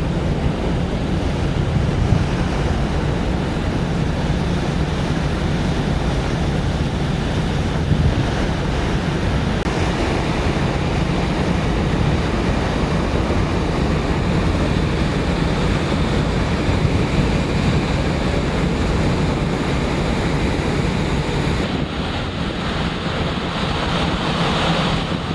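Steady rush of wind and sea aboard a large ferry under way, with wind buffeting the microphone over the low, even drone of the ship's engines.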